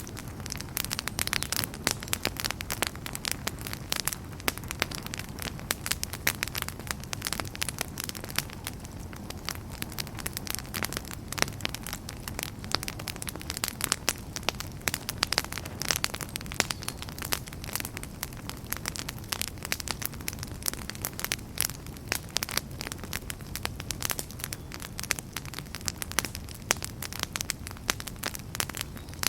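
Wood fire crackling and popping in a fireplace: many irregular sharp pops over a steady low rumble of the flames.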